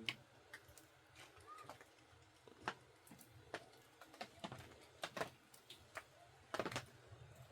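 Faint, scattered clicks and taps at irregular intervals, with a small cluster near the end, over a low steady background hum.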